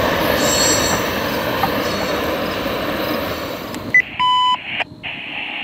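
Freight train tank cars rolling past, steel wheels rumbling on the rails. About four seconds in the train sound cuts off and a short electronic beep sounds from a radio scanner.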